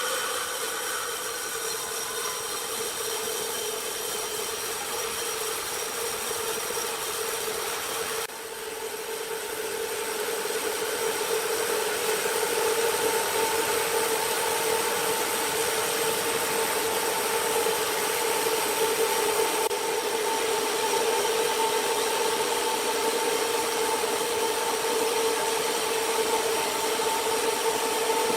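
A large sawmill saw running through wood, a steady whine over a rushing hiss. About eight seconds in the sound drops abruptly, then builds back up and holds steady.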